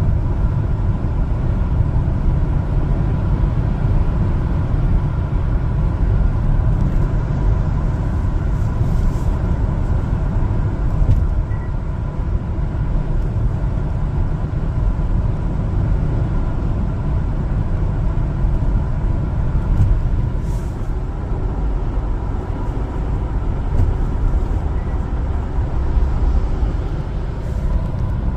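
LPG-fuelled one-ton cargo truck on the move: a steady low rumble of engine and road noise that holds even throughout.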